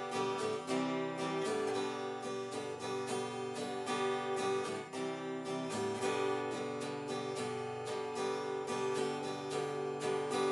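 Acoustic guitar strummed in a steady rhythm, chords ringing, as an instrumental break between sung verses.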